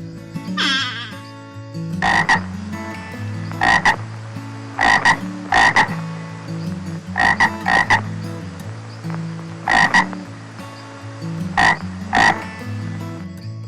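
Frog croaking: short calls, mostly in pairs about half a second apart, repeated every one to two seconds over a steady low drone.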